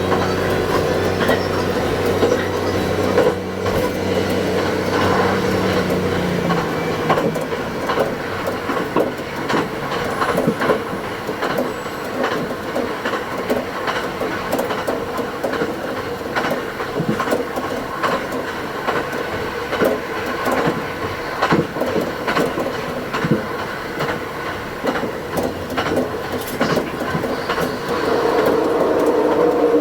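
Diesel railcar running along the line, heard from the cab, its engine note dropping away about six seconds in as it coasts on with a steady rolling rumble and many quick clicks from the wheels over rail joints. The sound is played back at double speed, so it is pitched up and quickened.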